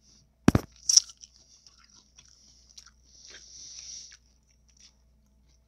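Close-miked eating of a taco: a deep thump about half a second in, a sharp crunch of a bite about a second in, then softer crackling chewing.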